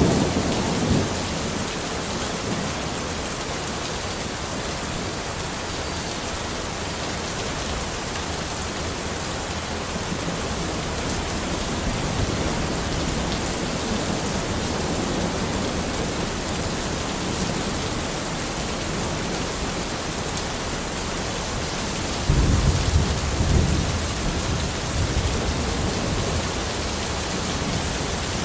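Steady rain falling, with distant thunder. A rumble dies away in the first second, and another low roll of thunder comes in about three quarters of the way through and lasts a few seconds.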